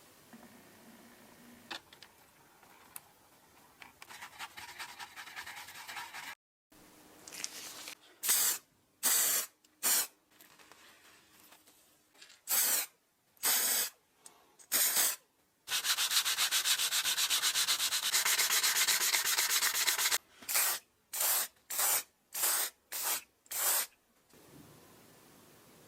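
Hand rubbing or sanding strokes on a part: several separate strokes of about half a second, then a few seconds of fast back-and-forth scrubbing, then five more short strokes.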